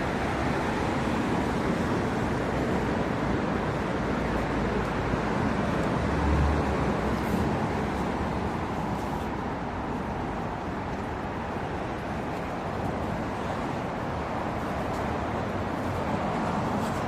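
Steady outdoor city ambience of traffic noise, with a brief low rumble about six seconds in.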